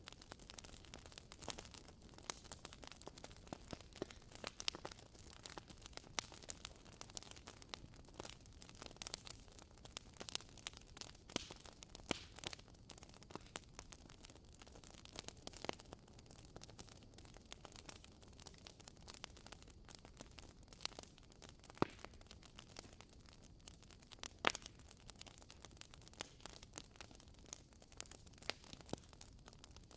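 Wood fire crackling in a fireplace: irregular sharp pops and snaps from the burning logs over a faint hiss, with a few louder pops, the most marked about 22 and 24 seconds in.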